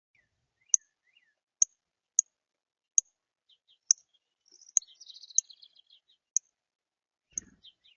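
A songbird at a bird feeder gives about nine sharp, high chip calls, one every second or less, loud and close to the microphone. Fainter twittering of other birds comes in around five seconds, and a soft low thump sounds near the end.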